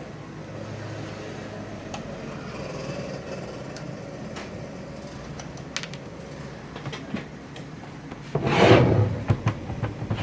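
Hands and tools working on an amplifier's metal chassis during disassembly: light clicks and rubbing, then a loud scrape about eight seconds in, followed by a few sharp metallic clicks.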